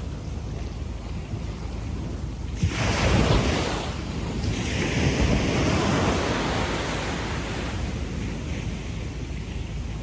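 Small waves breaking on a sandy beach and washing up the sand: one breaks suddenly about a quarter of the way in, and a longer wash follows and slowly fades. Wind buffets the microphone.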